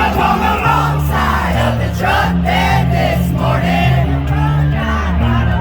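Live country-rock band playing loudly through a concert PA, with bass, drums and guitars, sung vocals, and crowd noise mixed in.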